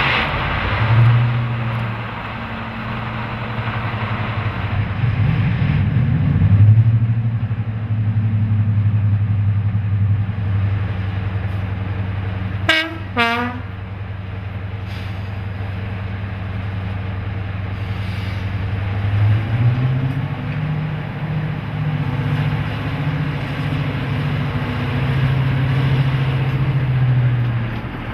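Class 55 Deltic diesel locomotive's Napier Deltic two-stroke engines running with a steady low drone, with two short horn blasts about halfway through. The engine note rises about two-thirds of the way through.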